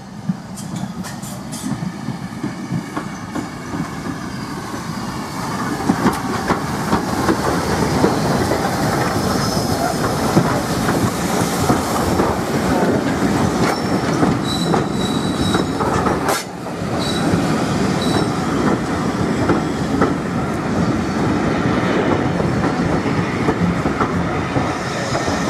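Steam train hauled by LB&SCR E4 tank engine No. 473 rolling slowly in along the platform: the carriage wheels clatter and click over the rail joints, growing louder over the first few seconds as the train draws level. A brief high squeal comes a little past halfway.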